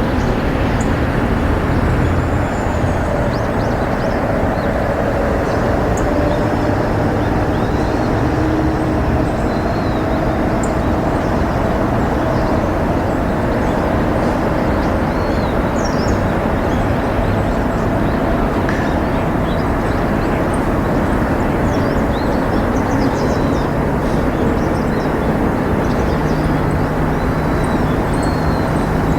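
Steady low rumble of distant road traffic, with short high bird chirps scattered through it.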